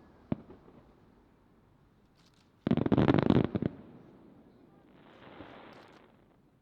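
Aerial fireworks shells bursting: a single sharp bang shortly after the start, then a rapid volley of bangs lasting about a second, followed by a softer, fainter hiss.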